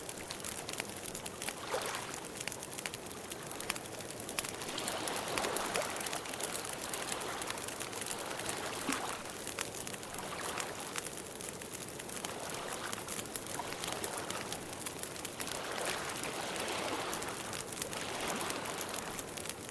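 Campfire crackling steadily, with many small pops and soft rushing swells every few seconds.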